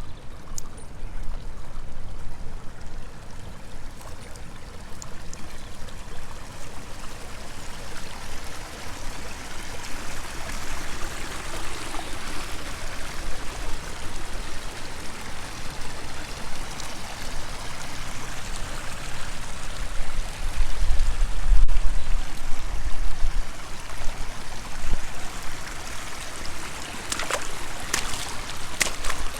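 Flowing water running steadily, with a stronger low rumble about two-thirds of the way through and a few sharp clicks near the end.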